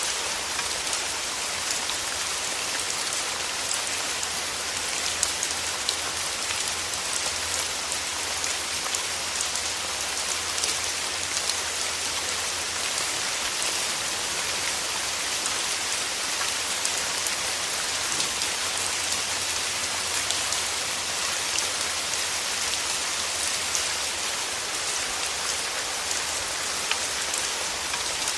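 Steady rain falling, a dense even hiss of raindrops with fine individual drop ticks throughout.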